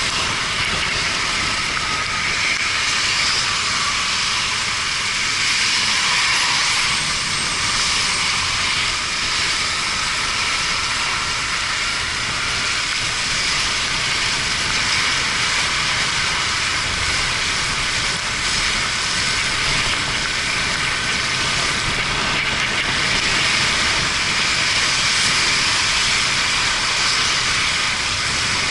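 Yamaha Fazer 250 motorcycle ridden on a wet road in the rain: a steady hissing rush of wind and tyre spray, with the engine running faintly underneath.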